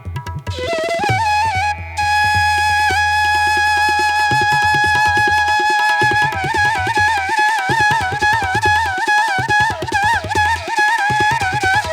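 Background music: a flute melody over low drumbeats. A long held note from about two seconds in gives way to wavering, ornamented phrases about halfway through.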